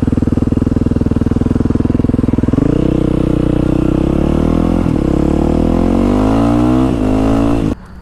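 Motorcycle engine idling with an even pulse, then pulling away about two and a half seconds in, its pitch rising steadily with two brief dips at gear changes. The sound cuts off suddenly near the end.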